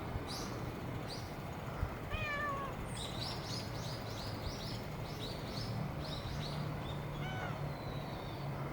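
A cat meows twice, once about two seconds in and again near the end. Between the meows, small birds chirp rapidly, and a low steady hum sits underneath.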